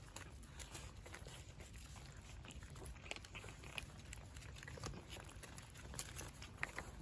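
Cats eating, with faint scattered crunches and clicks of chewing.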